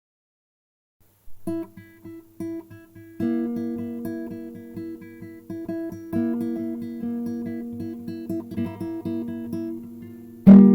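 Acoustic guitar playing a picked pattern of repeated notes over ringing held notes. It starts a little over a second in, and a loud strummed chord comes near the end.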